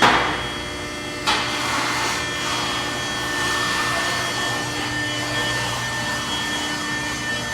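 Automatic express car wash equipment running: a steady rushing noise with a whine of motors, rising sharply at the start and again about a second in.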